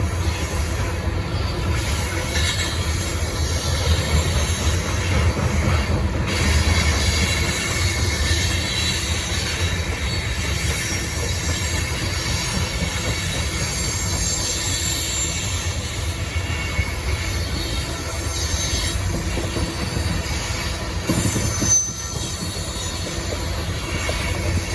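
BNSF coal train rolling past: a steady rumble of steel wheels on rail, with high wheel squeal above it. There is a short loud clank near the end, after which the sound is a little quieter.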